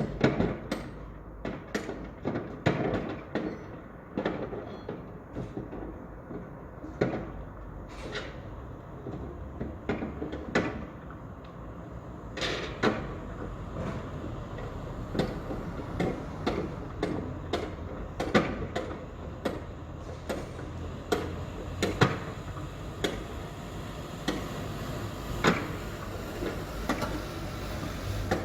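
Construction site ambience: irregular knocks and clanks, some close together and some spaced a second or more apart, over a continuous low machinery rumble.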